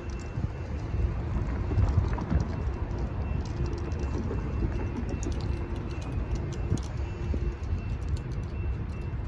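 Passenger train rolling through a railroad crossing: a steady low rumble with irregular clicking from the wheels on the rails, thickest in the middle stretch.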